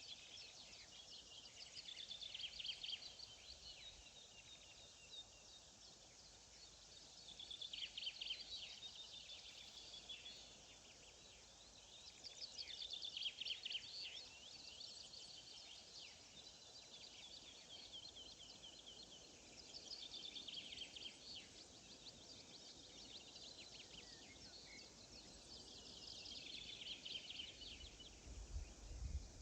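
A songbird singing short, fast trilled phrases, one about every five or six seconds, faint over a quiet background hiss. A low rumble comes in near the end.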